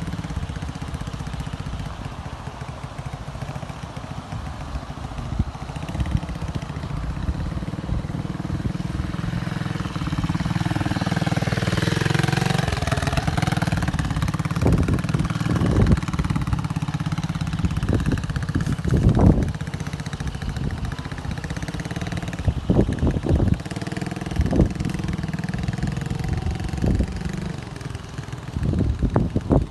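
Pit bike's small engine running, rising and falling in pitch as it is revved around the middle, with a series of sharp knocks in the second half.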